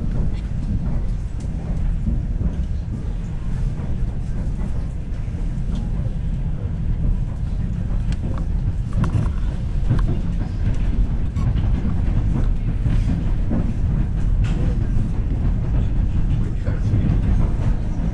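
Suburban electric train running along the line, heard from inside the carriage: a steady low rumble with irregular knocks and clicks of the wheels on the rails.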